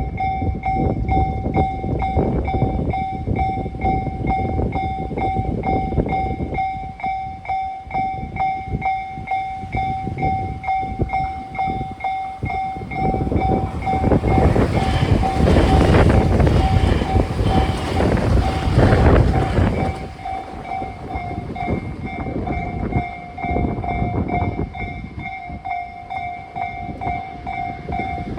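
A Japanese level-crossing warning bell rings in a steady repeating pattern while electric trains, one a Tobu 80000 series, pass each other through the crossing. Wheels clack over rail joints in the first several seconds, and the loudest pass comes from about 14 to 20 seconds in.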